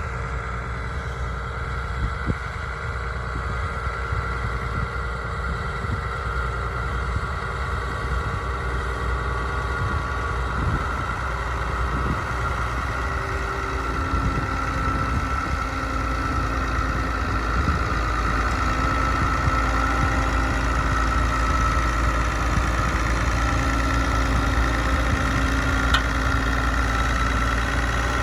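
Leyland 2100 tractor's diesel engine running steadily while ploughing, gradually getting louder.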